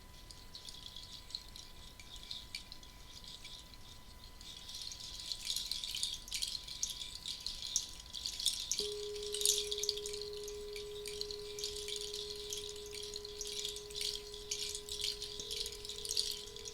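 A hand rattle shaken in a continuous, shimmering rattle that grows louder about four seconds in. About halfway through, a pure, steady tone begins and holds. Near the end a second, slightly higher, pulsing tone joins it.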